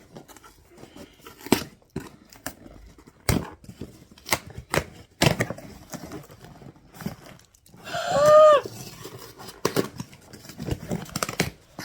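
A cardboard gift box and its packaging being opened by hand: tearing, rustling and a series of sharp knocks and clicks. A short wordless vocal exclamation comes about eight seconds in.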